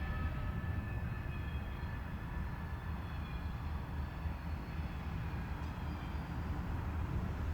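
Freight train rumbling steadily at a low pitch, with faint high tones in the first few seconds.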